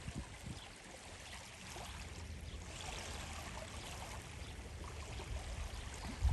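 Steady sound of moving, splashing water, with a low rumble underneath.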